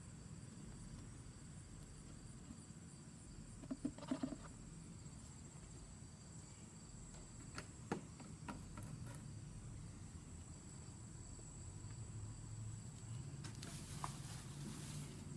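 Faint, steady, high-pitched insect trill, like crickets, over a low outdoor rumble. It is broken by a few scattered clicks and knocks about four and eight seconds in, and a short burst of hiss near the end.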